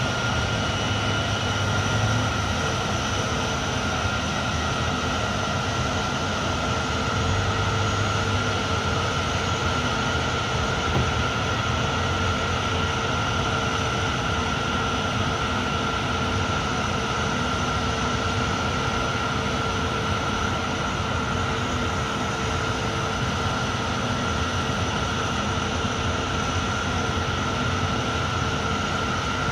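Aircraft engines running at a steady setting: a constant whine over a rushing hum, holding the same pitch throughout.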